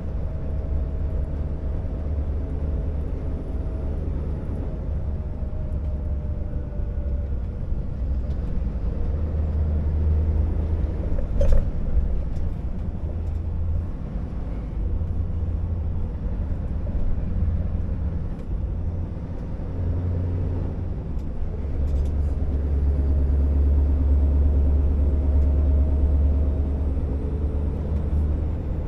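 Scania R650 timber truck's V8 diesel engine running under load, a deep low drone that swells and eases every few seconds. A single sharp click sounds about eleven seconds in.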